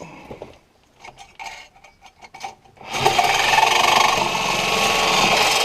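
A few light tool-handling clicks and knocks, then about three seconds in a reciprocating saw starts cutting with a loud, steady rasping run.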